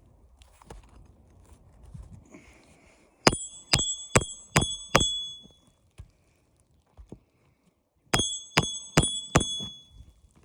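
Hammer driving a roofing nail to refasten a shingle: five quick metallic strikes with a brief ring, then after a pause four more.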